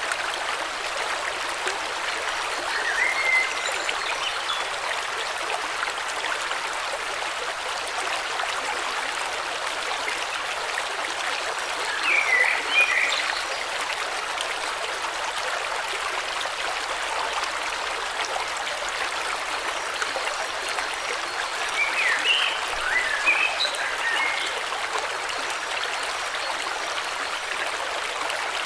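A stream or river flowing steadily, with short spells of bird chirps a few seconds in, near the middle, and again about three quarters of the way through.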